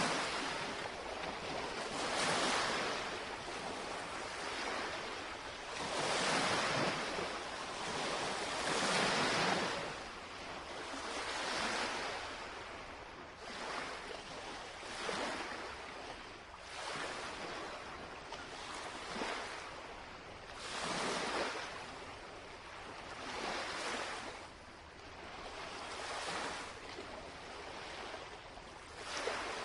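Small lake waves lapping and washing against the shoreline, each wash swelling and falling away about every two to three seconds.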